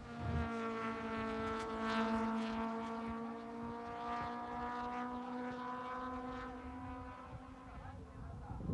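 A car engine holding steady revs, a steady drone that swells, then fades and sinks a little in pitch as it goes by.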